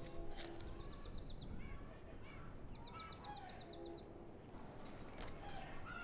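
Birdsong: a small bird's fast, high trill of rapidly repeated notes, sung twice, the second one longer, with a few short chirps between.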